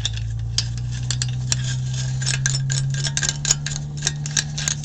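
Muffler clamp parts (steel U-bolt, bracket and nuts) clinking and clicking against each other and the exhaust pipe as the clamp is turned and fitted by hand, in quick irregular ticks. Under it, a steady low hum that rises slightly in pitch over the first few seconds.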